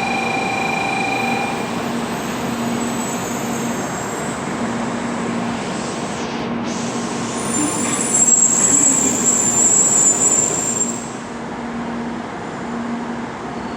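Train running at a station platform, a steady rumble with a high squeal for about three seconds, some eight seconds in.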